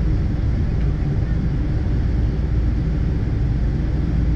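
Steady cabin rumble inside a Boeing 777-200ER on the ground, heavy in the low end, from its engines and airframe, heard from a window seat.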